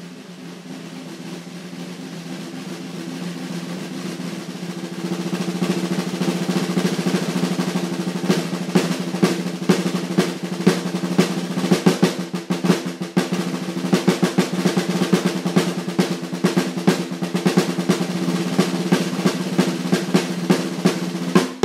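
Snare drum fitted with an Evans Level 360 HD Dry two-ply batter head, played as a roll that swells from soft to loud over the first several seconds, then carries on loud with individual accented strokes standing out.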